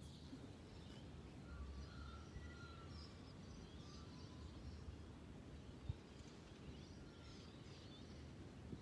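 Quiet outdoor ambience with faint, scattered bird chirps and one small click about six seconds in.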